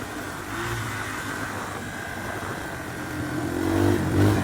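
Dirt bike engine running at low revs under way, picking up and growing louder about three seconds in.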